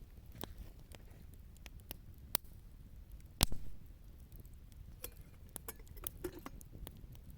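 Wood campfire crackling: scattered sharp pops and snaps, with one loud snap about three and a half seconds in and a quicker run of crackles near the end.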